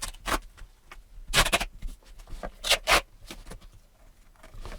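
Adhesive tape being pulled and rubbed down on a book's cover and spine: several short ripping, scraping strokes, the strongest about a second and a half in and just before three seconds.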